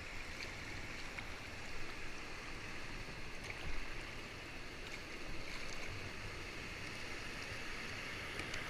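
Steady rush of water pouring over a river weir, with low wind rumble on the microphone.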